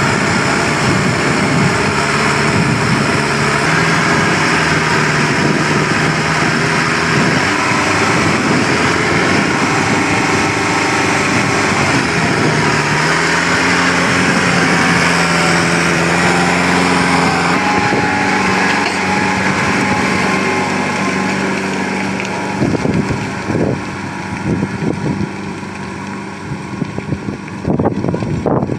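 New Holland TD75D tractor's diesel engine running under steady load, its engine speed shifting a couple of times. In the last few seconds it runs quieter, with uneven knocks and gusts on top.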